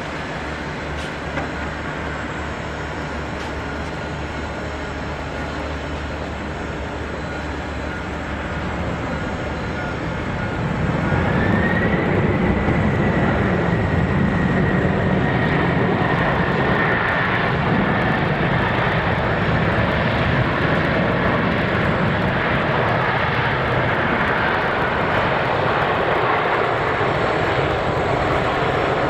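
Boeing 747-400 jet engines running with a steady rush that grows louder about ten seconds in, as a high whine rises and then holds.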